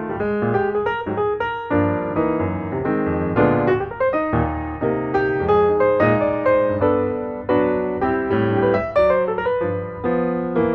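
Background piano music: notes and chords struck in quick succession.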